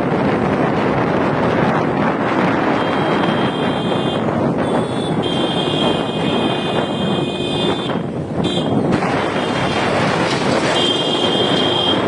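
Bulldozer running steadily amid loud, dense street noise, with a high thin tone coming and going from about three seconds in.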